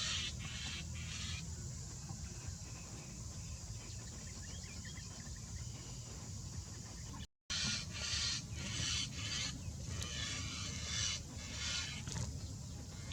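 Birds calling: a run of harsh, repeated calls in the second half, over a steady low rumble. The sound cuts out briefly about seven seconds in.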